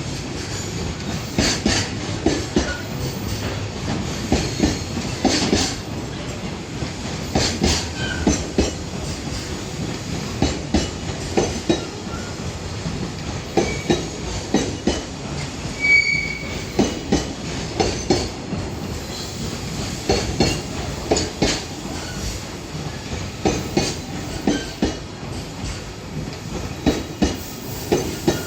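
Container freight wagons rolling past, their wheels clacking over rail joints in repeated close pairs over a steady rumble. There is a brief high wheel squeal about 16 seconds in.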